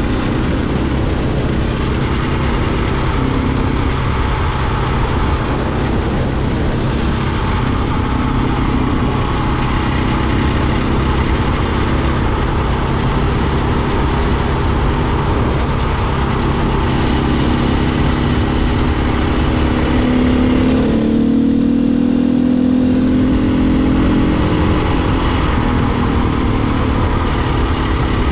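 A dirt bike's single-cylinder engine running at road speed, mixed with steady wind rush on the microphone. About two-thirds through, the wind eases and the engine note comes through clearly for a few seconds, its pitch gliding.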